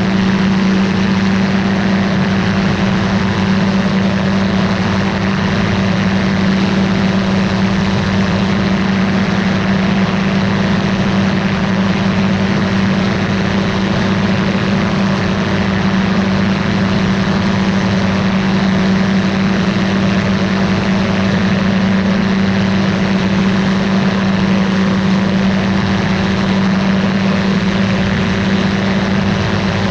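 Ultralight aircraft's engine and propeller running steadily, a constant drone with a strong low hum and no change in pitch.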